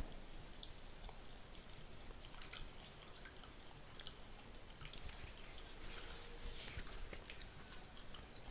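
Fingernails scratching and rubbing through a beard close to the microphone: a run of soft crackles and small clicks, with a longer rustling scratch about six to seven seconds in.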